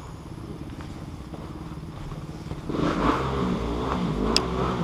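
Motorcycle engine running at low revs, then revving up and down from about two and a half seconds in. A brief high squeak is heard near the end.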